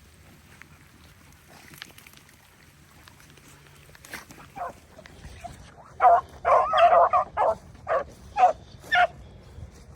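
Beagles baying on a rabbit trail: after a quiet start, one short bay about halfway through, then a quick string of about eight loud, pitched bays in the last few seconds.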